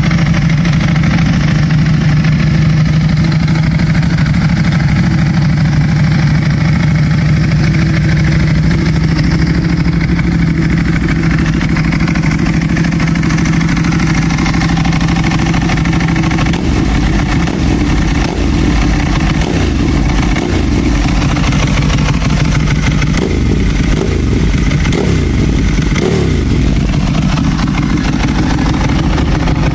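Ducati Streetfighter S 1099 cc L-twin engine running through an Austin Racing aftermarket exhaust. It holds a steady raised idle, then about halfway through drops to a lumpier idle whose pitch wavers up and down with small throttle blips.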